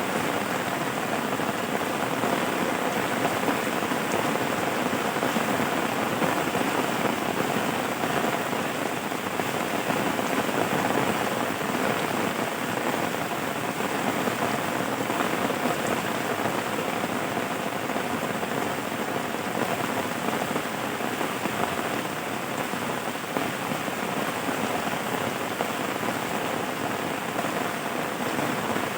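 Steady rain falling, a dense even patter on a surface.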